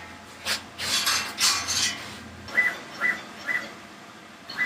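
A few rustling, rubbing noises, then three short high electronic beeps about half a second apart and a longer beep near the end.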